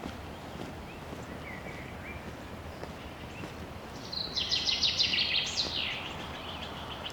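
A songbird sings a loud, rapid trilled phrase about four seconds in, which ends with a falling note and trails off into a fainter trill. Before it there are a few faint, short chirps, over a steady low background noise of the forest.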